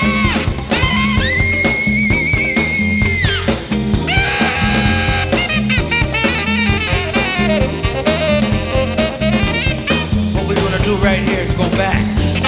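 Acid-jazz band music: a drum kit keeps a steady beat under melodic lead lines, with a long high note held with vibrato for about two seconds near the start, followed by busier runs.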